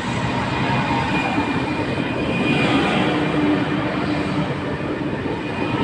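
Pendolino electric train rolling slowly past along a platform: a steady rumble of wheels on rail with a few steady electric hum tones running through it.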